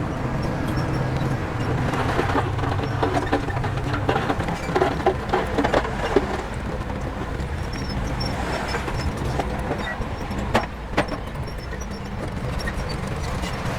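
Heavy diesel construction machinery running with a steady low rumble. A stretch of irregular clanking and knocking comes in the first half, and two sharp knocks follow about half a second apart later on.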